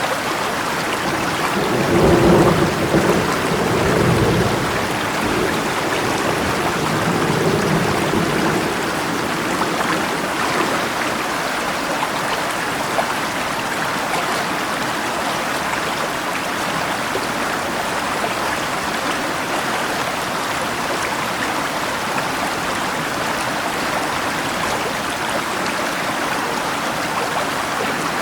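Steady rush of river water and rain, with a roll of thunder about two seconds in that rumbles for a few seconds, and a fainter rumble a few seconds later.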